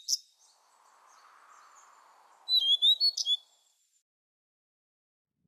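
Small bird chirping in quick, high, sweeping notes: one burst right at the start and another about two and a half seconds in, over a faint hiss.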